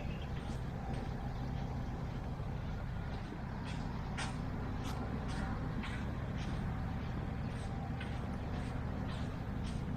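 Street traffic: a steady low rumble of passing vehicles, with many short, sharp ticks and clicks scattered through it.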